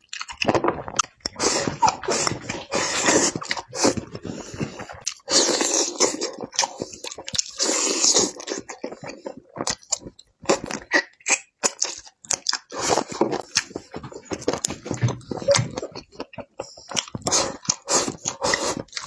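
Close-miked crunching and chewing of crispy fried chicken: irregular crisp crackles of the breaded crust between bites and chews.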